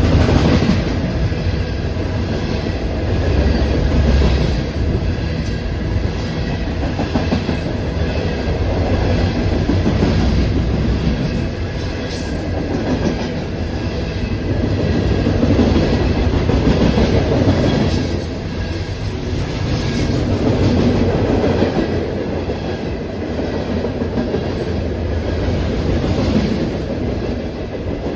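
A train rolling past close by, its cars' wheels clacking over rail joints in a steady run with swells every few seconds.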